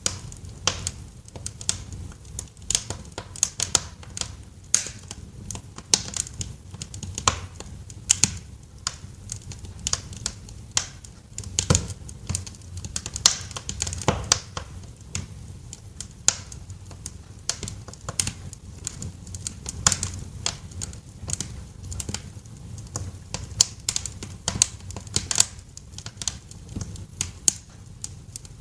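Wood fire in a fireplace crackling, with irregular sharp pops and snaps several times a second over a low steady rumble of the burning logs.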